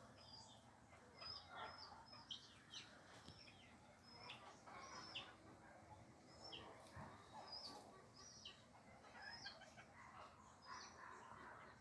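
Birds chirping faintly, with many short, high chirps repeating throughout and some lower calls among them.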